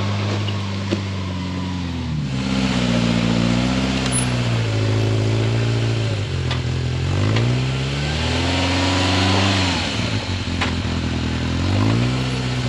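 Polaris RZR Pro R side-by-side's engine running under throttle, its pitch rising and falling about five times as it revs up and eases off, over a steady hiss.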